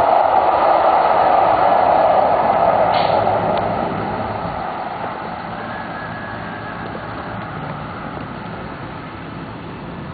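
Los Angeles Metro Blue Line light-rail train running, a steady rushing rumble that fades steadily as it moves off, with a short sharp click about three seconds in.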